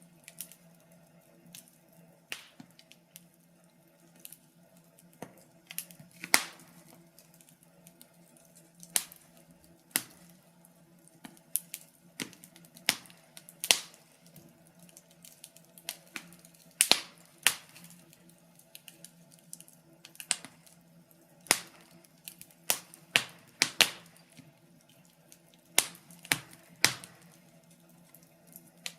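Wood fire crackling in a fireplace: irregular sharp pops and snaps, a few louder than the rest, several a second at times.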